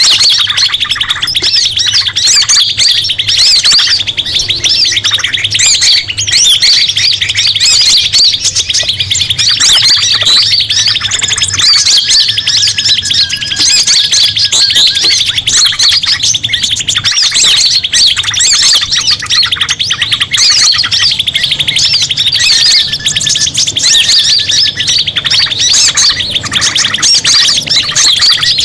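A loud, continuous chorus of many small birds chirping and calling over one another, with a steady rapid buzzing trill underneath: a 'ribut' bird-lure recording made to draw in forest birds.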